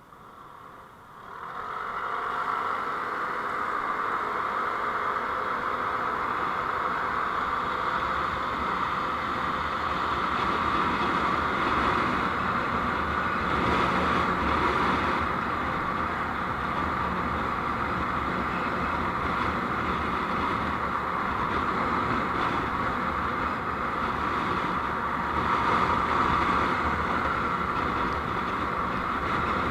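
Steady road noise of a moving vehicle, engine, tyres and wind together, which comes up about a second in after a moment of faint hiss.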